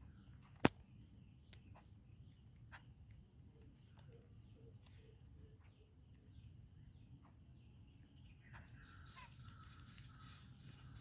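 Faint calls of wild birds at a feeding spot, with a run of short soft notes partway through and chirps near the end. Scattered soft clicks run throughout, and one sharp click about a second in is the loudest sound.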